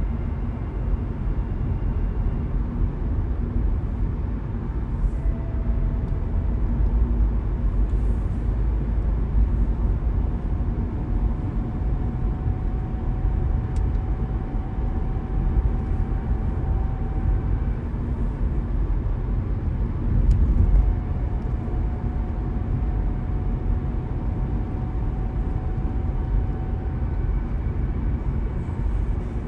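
Steady low rumble of a car driving along a road, tyre and engine noise, with a faint thin whine that holds for several seconds twice and a slight swell in level about twenty seconds in.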